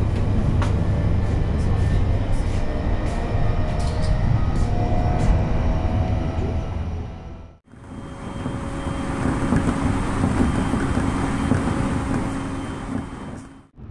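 E531 series electric train running: a steady low rumble with occasional light clicks. About eight seconds in, the sound breaks off and resumes as a hissier running noise with a steady hum.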